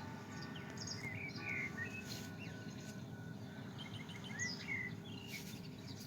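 Small birds chirping in short, quick rising and falling calls, scattered through, over a steady low background rumble.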